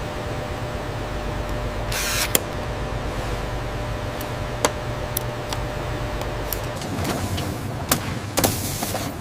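Factory machinery running as a steady low hum, with scattered sharp clicks and knocks and a short burst of hiss about two seconds in.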